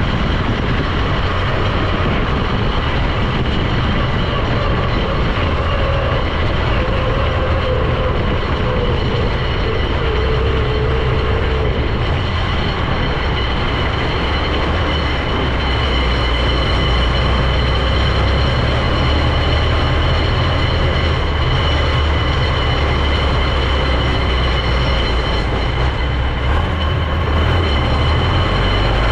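A vehicle on the move: steady engine and road noise with a strong low rumble and a faint high whine, holding an even level throughout.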